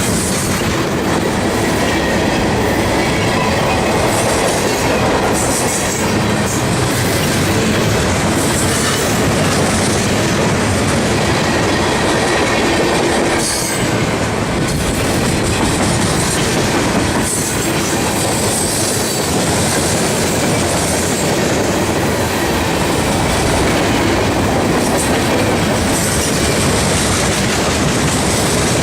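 Mixed freight train rolling past: a steady, loud rumble of steel wheels on rail, with a few sharp clacks over the rail joints and a faint high wheel squeal that comes and goes.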